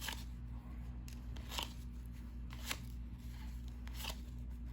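1990-91 NBA Hoops trading cards being flipped and slid through the hands one after another, about five short crisp card flicks and rustles over a steady low hum.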